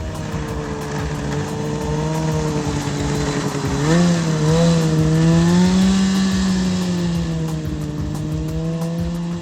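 An engine running steadily, its pitch rising briefly about four seconds in and then easing back.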